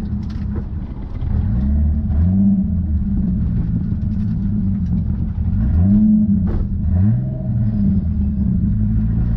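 Toyota Chaser JZX90's turbocharged straight-six, heard from inside the cabin while the car is driven on track. The engine revs rise and fall several times, climbing sharply a few times before dropping back.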